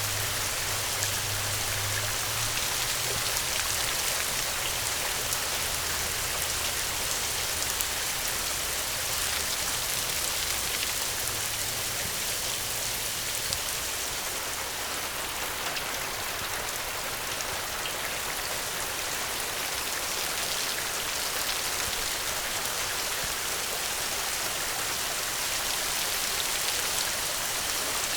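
Steady rainfall, a dense even patter of drops on surfaces. A faint low hum underlies it for the first half and fades out.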